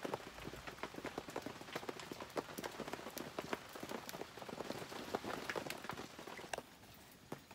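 Heavy rain falling, with many small irregular drop taps close by, a little quieter near the end.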